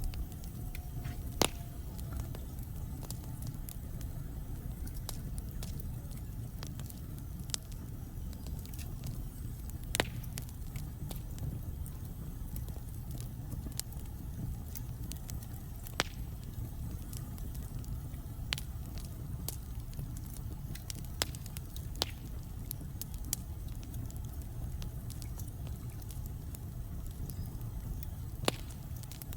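Wood fire burning in a fireplace: a steady low rumble of flames with sharp crackles and pops from the logs at irregular intervals, a few louder snaps among them.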